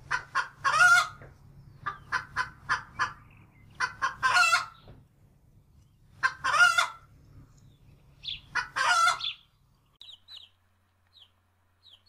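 Domestic hens clucking: four runs of quick clucks, each ending in a longer drawn-out call, then faint short high chirps near the end.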